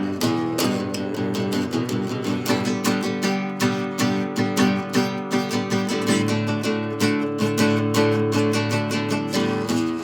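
Acoustic guitar strummed in a steady, quick rhythm of chords, without singing.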